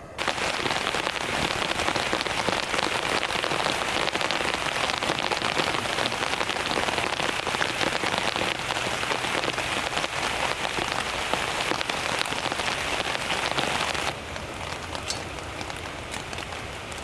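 Steady rain falling as a dense hiss that starts abruptly. About fourteen seconds in it turns lighter, with separate drops ticking.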